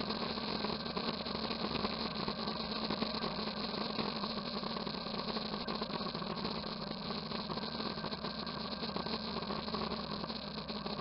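Motorcycle engine running steadily, an even, unbroken engine sound with no changes in pace.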